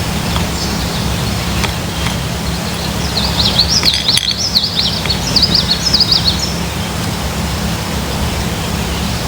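A songbird sings a quick phrase of rapid up-and-down chirping notes for about three seconds, starting about three seconds in, over a steady low background rumble.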